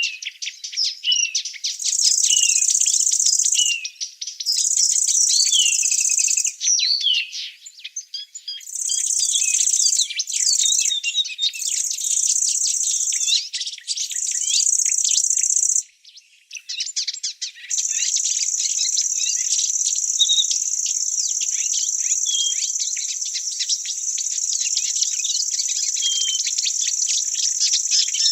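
Insects shrilling in one steady high-pitched band that starts and stops in spells of a few seconds, then keeps going without a break from a little past halfway. Birds chirp quickly and repeatedly underneath, most busily in the first half.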